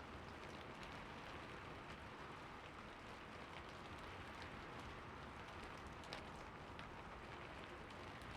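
Heavy rain falling steadily, with many individual drops ticking through the hiss and one sharper drop hit about six seconds in.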